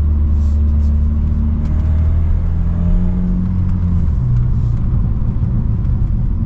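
Straight-piped BMW F30 328i's turbocharged four-cylinder exhaust droning steadily while driving, with the engine note dropping lower about four seconds in.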